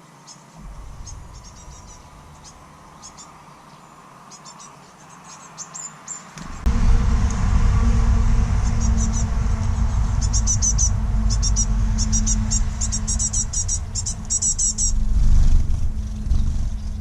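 Small songbirds chirping in quick, repeated high calls, busiest in the second half. About six and a half seconds in, a loud low rumble starts and continues under the chirps.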